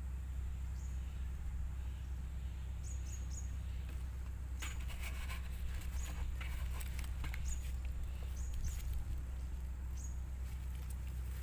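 Small birds chirping in short, high calls every second or two over a steady low hum. About halfway through comes a spell of crackling and rustling from hands handling a plastic bait container.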